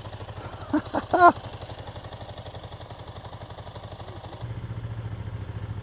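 Ducati Monster's V-twin engine running at low revs, with an even, rapid pulse. It gets louder about four and a half seconds in.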